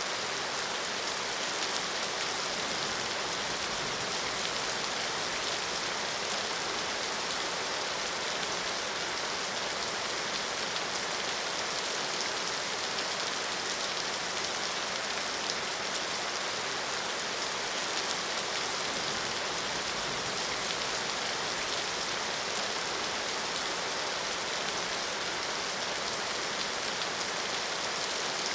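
Steady rain falling, an even hiss with fine drop patter and no change in intensity.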